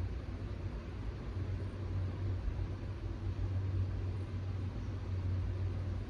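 Steady background noise: a constant low hum with an even hiss over it, no distinct events.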